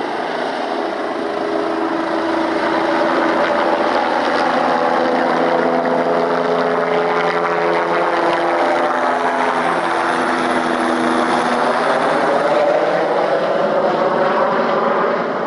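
Helicopter flying past: a steady rotor and engine drone with a sweeping, phasing tone that bends down and back up as it goes by, swelling a little and easing off near the end.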